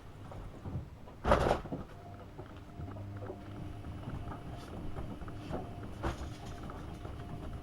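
AEG Öko-Lavamat 72520 front-loading washing machine during its wash: the drum turns, with laundry and water sloshing and knocking inside, and a louder splash about a second in. From about two and a half seconds in, a steady motor hum runs under the sloshing.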